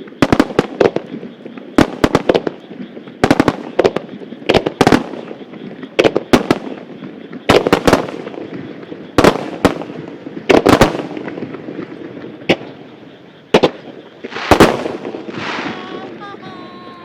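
Starmine firework barrage: aerial shells bursting in quick clusters of loud, sharp bangs, a new cluster about every one to one and a half seconds, with crackling between the bursts.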